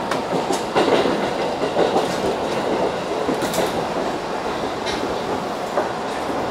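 Seibu 3000 series electric train running, heard from inside its leading car: a steady rumble with irregular knocks and clatter of the wheels over rail joints, busiest in the first half.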